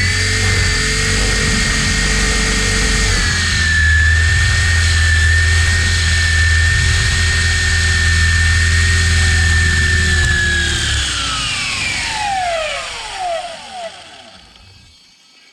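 KDS 450 flybarless RC helicopter's motor and rotor running with a steady whine, then spooling down: the pitch falls from about ten seconds in and the sound dies away near the end.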